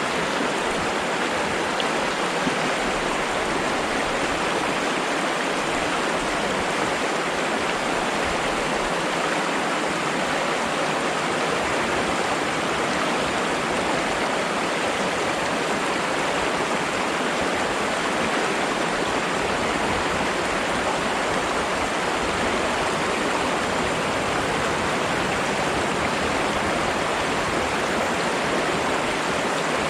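Flowing water rushing steadily and evenly, with no breaks or separate splashes.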